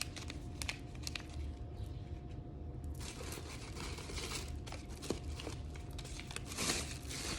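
Packaging of dried-herb bags being handled, crinkling and rustling with scattered small clicks, busiest in the second half.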